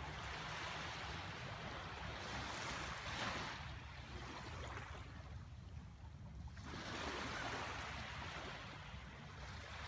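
Lake water washing in slow swells of hiss that rise and fall twice, over a steady low rumble of wind on the microphone.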